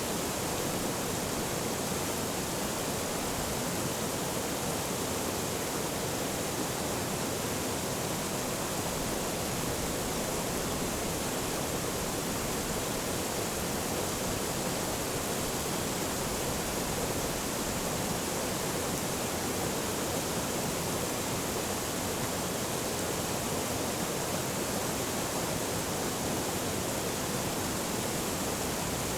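Forest stream flowing over rocks: a steady, even rush of water with no change.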